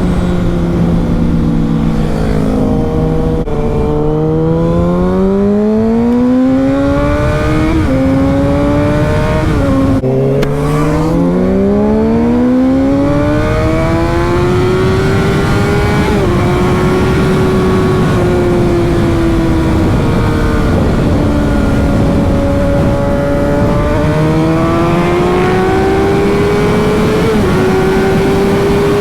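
Sport motorcycle engine pulling away under acceleration, its pitch climbing and falling back at upshifts about three and ten seconds in, then settling into a cruise with gentle rises and dips in pitch. Wind rumble runs underneath.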